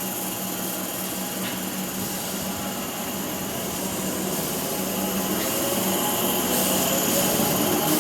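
Electric suburban train running with a steady hum, its traction motors whining higher and higher from about halfway through as it speeds up, growing louder.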